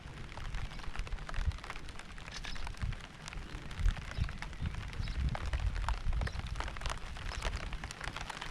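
Steady rain falling, with many separate drops ticking close by over a continuous hiss of rain, and an uneven low rumble underneath.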